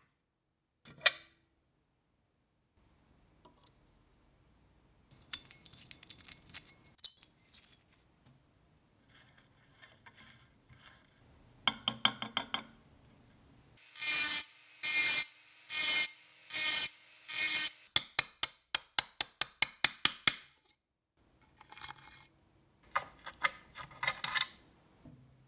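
Hand-worked abrasive strokes rubbing back and forth on the rusty metal of the lamp, as in filing or sanding off rust. The strokes come in several separate bouts: a run of about seven longer strokes roughly two a second near the middle, and quicker, shorter strokes in the others.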